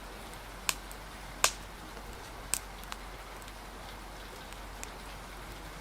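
Steady hiss of rain with a few scattered sharp pops and ticks; the loudest comes about a second and a half in.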